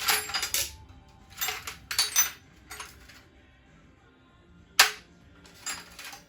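Hard objects clattering in several short bursts as things are handled and set down, with one sharp knock about five seconds in.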